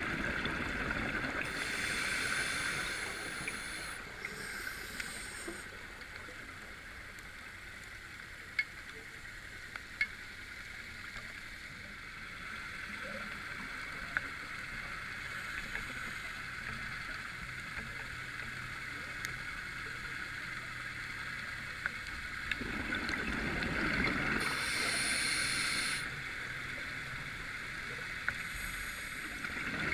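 Scuba diver's breathing heard underwater: a steady hiss with two longer rushes of exhaled bubbles, one a couple of seconds in and one near the end, and a few sharp clicks.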